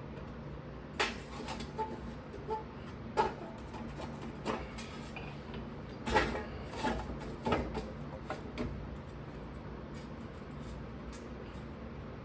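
Metal tools and parts clinking and knocking now and then during hand work on a car's wheel hub, over a steady low hum.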